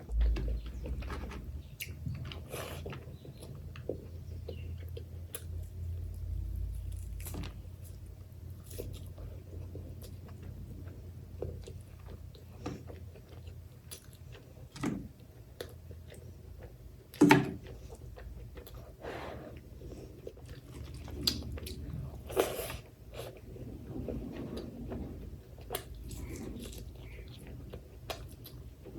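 A person chewing and biting through mouthfuls of spicy mutton curry, white rice and onion, with irregular crunches and mouth sounds. A few sounds are louder and sharper, the loudest about two-thirds of the way through.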